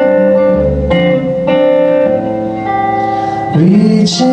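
Live music: a guitar plays the instrumental phrase between sung lines, with a voice coming in on a rising note near the end.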